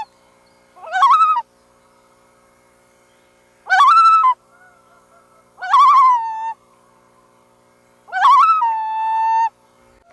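Loon calling four times, each call a quavering, wavering phrase. The last call ends in a steady held note lasting about a second.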